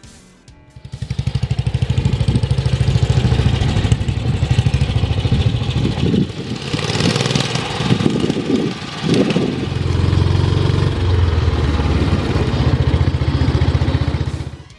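1940 BSA WM40 motorcycle's 500cc single-cylinder side-valve engine running, with a rapid, even thump of firing pulses. It comes in about a second in, is revved up and down in the middle, and cuts off just before the end.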